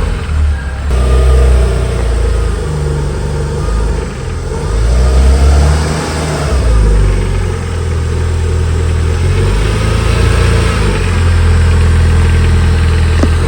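Renault Clio's swapped-in Renaultsport R26 engine running just after starting. It is revved a few times, then held steady near the end.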